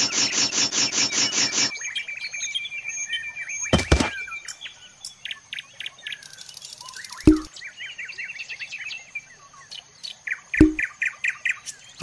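Birds chirping and calling. A loud, rapid chattering call repeats about seven times a second and stops about two seconds in, followed by scattered fainter chirps and trills. A few short knocks come at about four, seven and ten seconds in.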